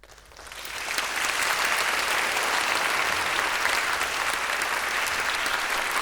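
Concert-hall audience applauding at the end of a brass band piece, swelling up over the first second and then holding steady.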